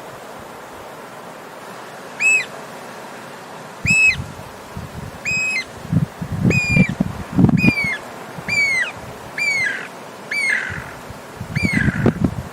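A bird calling over and over, about nine short calls roughly a second apart, each held briefly and then dropping in pitch at its end. A low rumbling noise sits under several of the calls.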